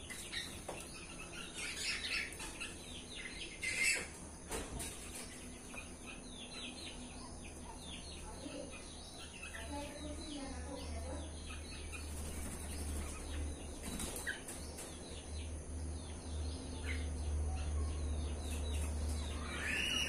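Birds chirping, with many short, quick calls throughout and a few louder calls about two and four seconds in and again at the end, over a low rumble that grows stronger in the second half.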